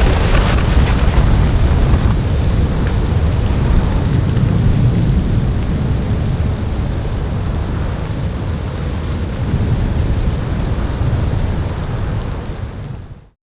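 Storm wind blowing hard: a steady, rumbling rush of wind noise that fades out near the end.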